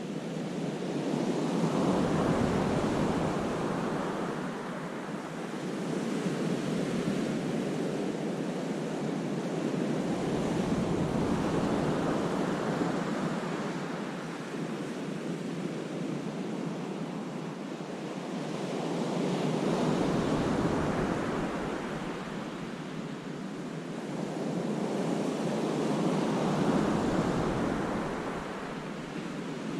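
Sea waves breaking and washing against a rocky cove. About four slow swells rise and fall, each with a deep rumble as the wave breaks.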